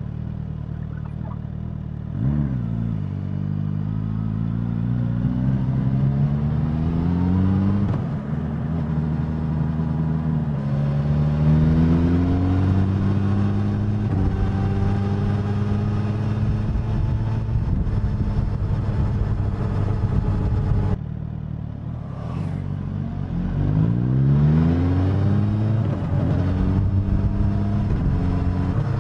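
Suzuki GSX-S1000 inline-four motorcycle engine and exhaust while riding: it revs up through the gears with a drop in pitch at each shift, then holds a steady cruise. About two-thirds of the way through the throttle closes, the note falls, and it accelerates again.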